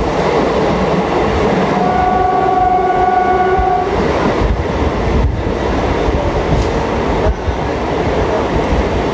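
MEMU electric passenger train running into a station: steady wheel and track rumble with rattling. A train horn sounds once, a steady tone held for about two seconds, starting about two seconds in.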